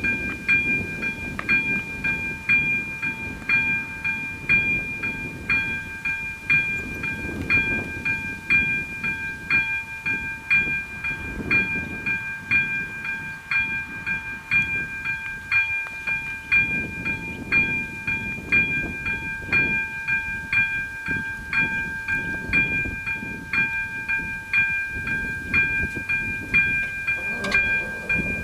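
Electronic warning bell of an AŽD 97 railway level crossing ringing, a steady ding struck about once a second, over an uneven low rumble.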